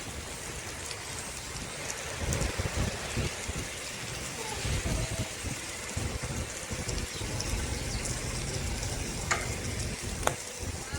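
Steady hiss of riding a bicycle along a road, with wind gusting on the microphone from about two seconds in, and two sharp clicks near the end.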